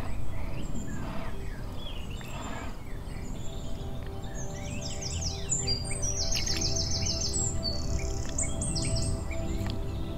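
Wild birds calling and chirping, with a fast run of high, rapidly repeated notes from about halfway through, over soft background music.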